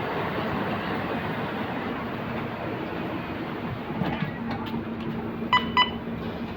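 Scania K230UB single-deck bus with its five-cylinder diesel running, giving a steady rumble of engine and road noise. Two short electronic beeps sound close together near the end.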